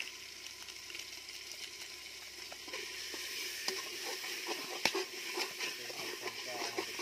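Ground spices frying in oil in a metal pot, sizzling steadily, with chicken masala powder just added. From about three seconds in a metal spatula stirs and scrapes against the pot, with a sharp click near five seconds.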